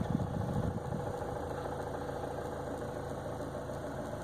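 2014 Chevy Cruze's 2.0-litre four-cylinder turbodiesel idling steadily, heard from inside the cabin.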